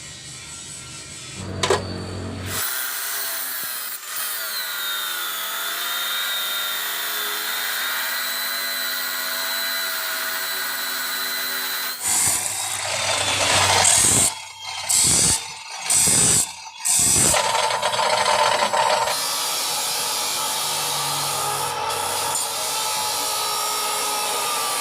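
An electric power tool running on metal, its pitch dipping briefly as it takes load. Near the middle it is stopped and started in several short bursts, then runs steadily again.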